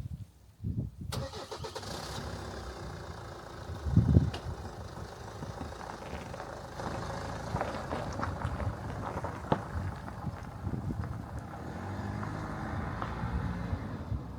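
A car engine starting about a second in, then running steadily, with a loud moment around four seconds in.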